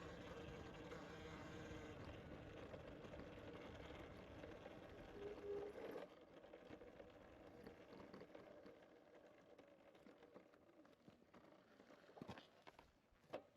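Faint bicycle riding noise on a trail: a steady hum for about six seconds, then quieter, with a couple of knocks near the end.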